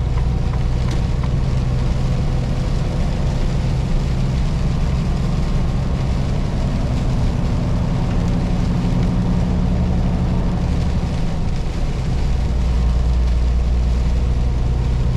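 Semi-truck's diesel engine running steadily under way, a low drone heard from inside the cab; the engine note shifts about twelve seconds in.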